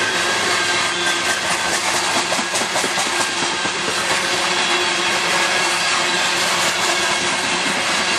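Loaded coal hopper cars of a long freight train rolling past at close range: the steady, unbroken noise of steel wheels running on the rails.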